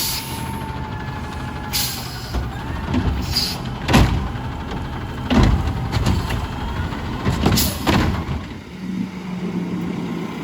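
Garbage truck running, with a whine that falls and then holds over the first few seconds. Several loud bangs and short hissing bursts come over the engine.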